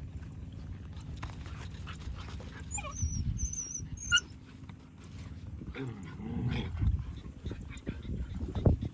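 Street dogs whining and vocalizing at each other in play, with high wavering cries about three seconds in and lower calls a few seconds later.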